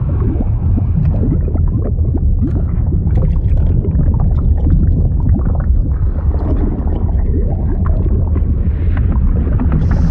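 Liquid sound effect: a steady, deep churning rumble with constant bubbling and gurgling.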